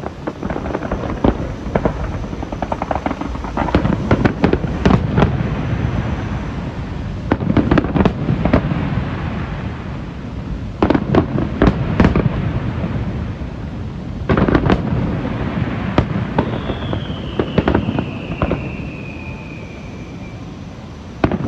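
Aerial fireworks display: repeated booming shell bursts and crackling salvos. About three-quarters of the way through, a high whistle falls slowly in pitch for about four seconds.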